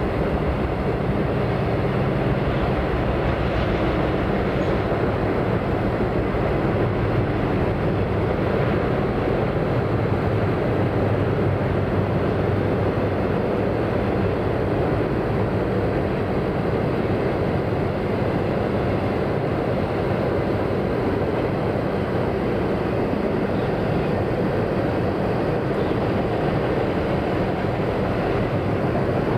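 A passing train's cars rolling along the rails, a steady unbroken noise of wheels on track.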